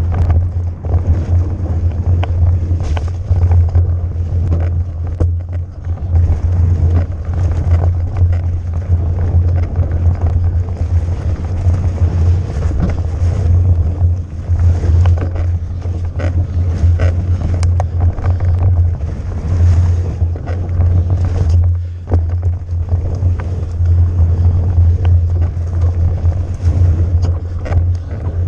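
Wind buffeting the microphone of a bike-mounted or helmet-mounted camera during a fast mountain-bike descent, a loud steady rumble. Scattered clicks and knocks come from the bike rattling over rough trail.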